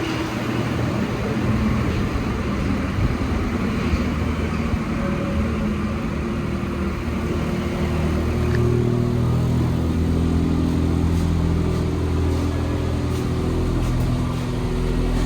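Interior running noise of an Alstom NS-74 metro train underway: a steady rumble from the rubber-tyred running gear. About eight seconds in, a motor hum of several steady low tones comes in over it.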